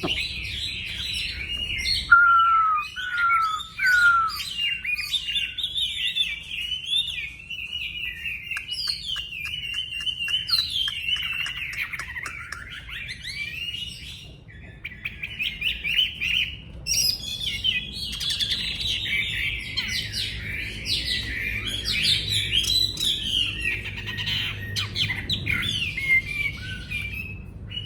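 Chinese hwamei (wambi) singing a loud, fast, varied song of whistled phrases, nearly without pause; this vigorous non-stop delivery is what keepers call gacor. Brief breaks come about halfway through, and there are a few sharp clicks.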